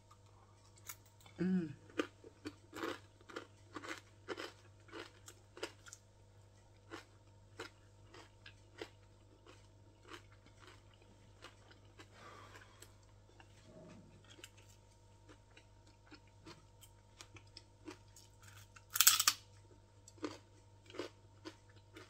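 A person chewing and crunching on fried dried fish (daing) with rice, in a run of short crunches that come thickest in the first few seconds and then thin out. One louder, half-second noise comes near the end.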